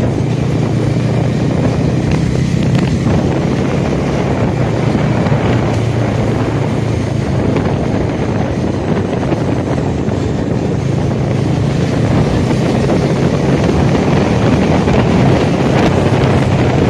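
Motorcycle engine running steadily while riding at cruising speed, with wind rushing over the microphone.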